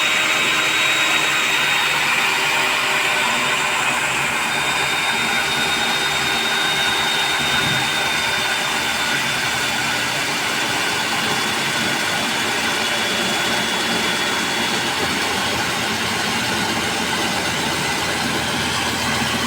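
Electric core cutting machine running steadily, a loud, even motor noise with a thin high whine over it that fades about three-quarters of the way through.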